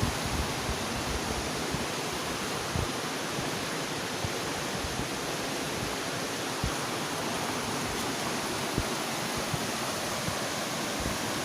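Steady rush of a waterfall's falling water, with brief low thumps on the microphone now and then.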